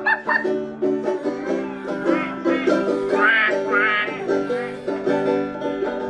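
Live band playing an instrumental break of a country-style song, plucked strings picking quick notes, with a wavering high melody line about halfway through.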